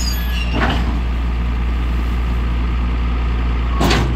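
Tractor engine running steadily at the field while round baling hay, with two brief noisy bursts, one about half a second in and one near the end.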